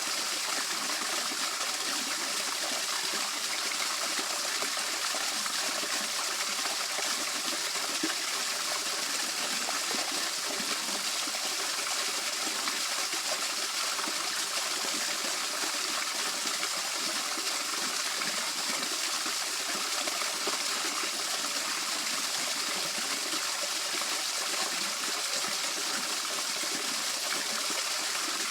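Water of a small waterfall on a rice-field stream running steadily, an even, unbroken rush.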